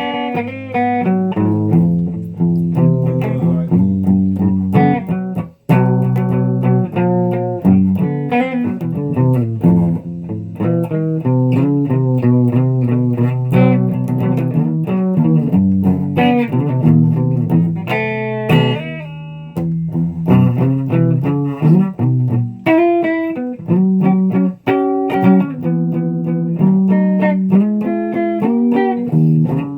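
Guitar playing without singing: a steady run of plucked notes and chords that breaks off briefly twice, about five seconds in and again near the three-quarter mark.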